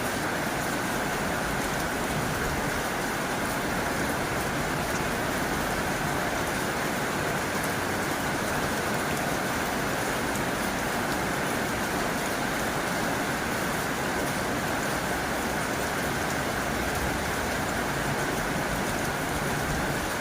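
Heavy rain drumming steadily on a tin roof, a dense, even hiss of countless drops with no letup.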